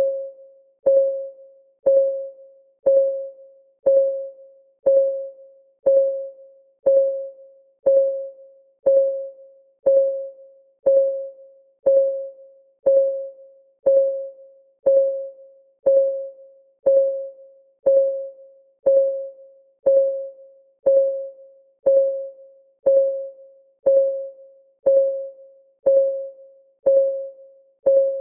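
Countdown timer's clock ticking sound: one tick a second, each a short pitched click that dies away quickly, in an even, unbroken rhythm.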